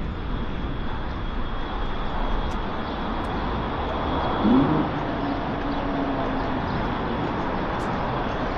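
Steady traffic noise along a busy city street, with vehicles passing. About halfway through there is a brief louder sound that rises in pitch.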